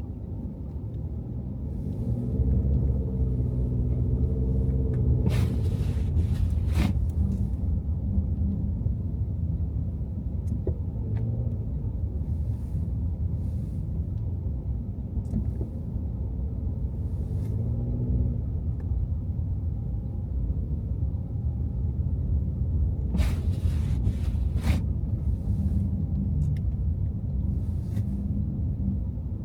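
Car driving on snowy city streets: steady low road and engine rumble, with the engine note rising under acceleration a couple of times and a few brief hissing swishes.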